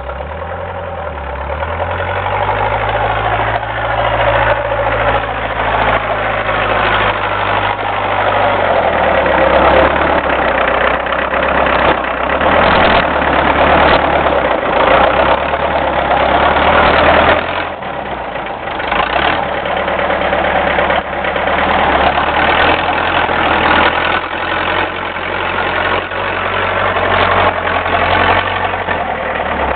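Homemade doodlebug tractor's diesel engine running under load while plowing snow. The engine speed shifts up and down several times over a steady, noisy mechanical din.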